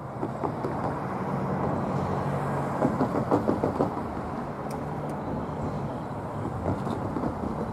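Distant diesel freight locomotive approaching: a steady low engine drone, with a short run of knocks about three seconds in.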